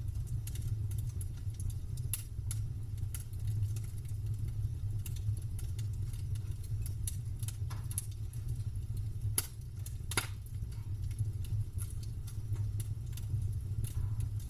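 Campfire burning, with irregular sharp crackles and pops of the burning wood over a steady low rumble; two louder pops come a little before ten seconds in and just after.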